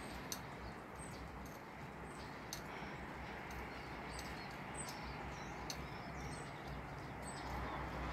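Steady hiss of a rain shower with scattered sharp ticks of drops, and faint high bird chirps now and then.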